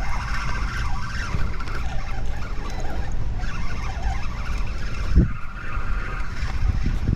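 Strong wind buffeting the microphone: a steady, fluttering low rumble with a rushing hiss above it, and a single knock about five seconds in.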